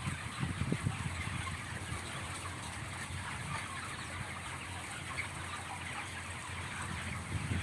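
A large flock of chickens clucking and chirping in a continuous, dense chatter, with a few low thumps in the first second.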